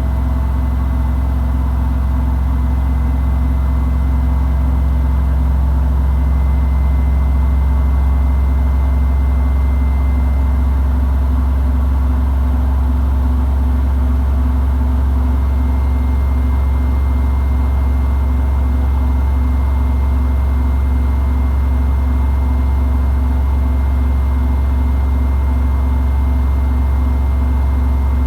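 Samsung WW90J5475FX Digital Inverter front-loading washing machine on its spin cycle, the drum turning at a steady high speed with a deep, even hum.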